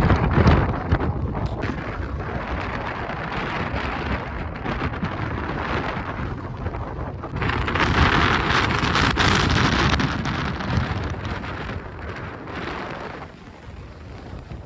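Very strong wind buffeting the microphone in a loud, rumbling rush. A stronger gust comes about halfway through, and the wind eases near the end.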